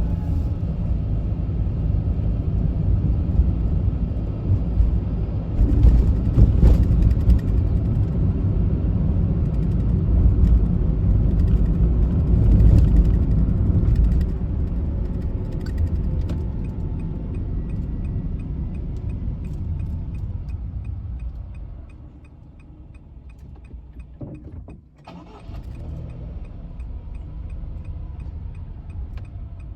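A car driving, heard from on board: a steady low engine and road rumble. It is louder in the first half and falls away to a quieter level about two-thirds of the way through.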